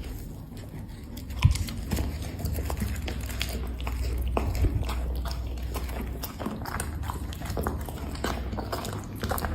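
Black Labrador biting and chewing dry seafood treats, with a quick run of crunches and smacks getting going about a second and a half in.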